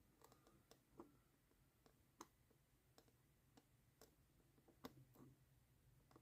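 Near silence with faint, irregular little clicks and taps from a small piece of model roofing being pressed and worked into place by hand.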